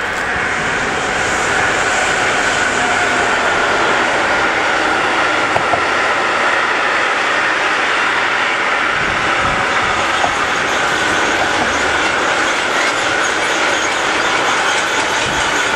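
Freight train of empty flat stake wagons rolling past: steady rumble of wheels on rails with a steady high note running through it, and a couple of sharp clacks about five and a half seconds in.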